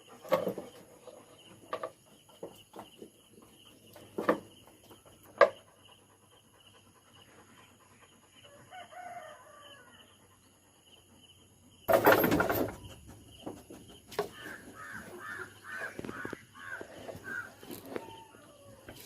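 A rooster crowing, along with several sharp knocks and one loud rough burst of noise about twelve seconds in.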